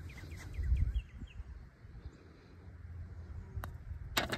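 A bird calling a quick series of short, falling chirps that fade out about a second in, over a low rumble of wind on the microphone. A few sharp clicks near the end.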